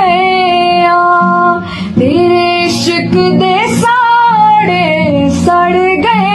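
A woman singing a Punjabi song in long held notes that bend from one to the next, with music behind her.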